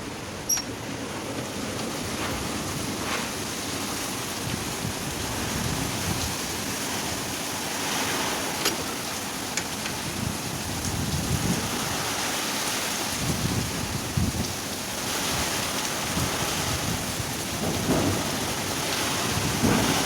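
Storm wind blowing in gusts and buffeting the microphone over a steady rushing noise, with a few sharp clicks. This is the wind of a violent storm that the uploader calls a tornado.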